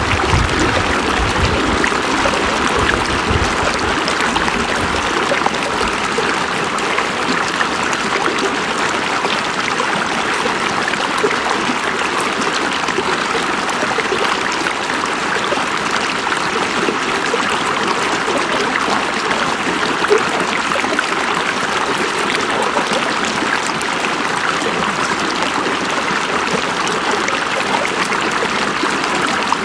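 River water flowing over rocks, a steady rushing and babbling with a brief low rumble in the first few seconds.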